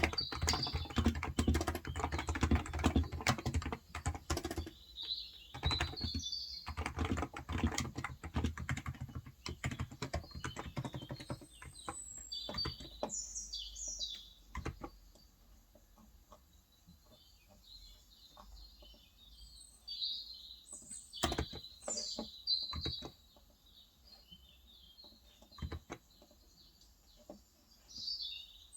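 Typing on a Cox Endeavour electro-capacitive tenkeyless keyboard with 35 g switches: fast, steady keystrokes for about the first twelve seconds, then only occasional keys. Birds chirp throughout.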